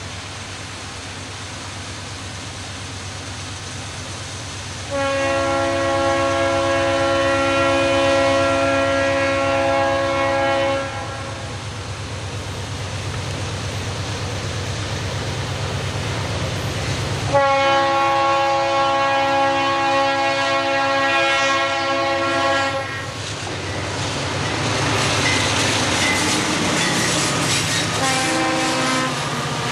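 Conrail diesel freight locomotives approaching and sounding an air horn in two long blasts of several notes together, each about six seconds, over the steady rumble of the diesel engines. In the last few seconds the locomotives pass close by, with engine noise and the clatter of wheels over the rail joints.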